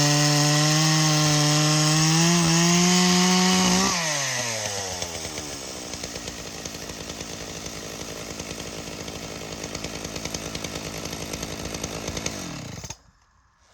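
Dolmar PS 9000 two-stroke chainsaw, running on its replacement ignition coil, held at full throttle; about four seconds in the throttle is released and the engine drops quickly to a steady idle. Near the end the engine is shut off and stops abruptly.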